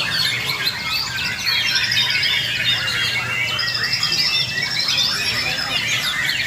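Many white-rumped shamas singing at once, as at a song contest: a dense, continuous chorus of overlapping whistles, trills and chatter over a low background murmur.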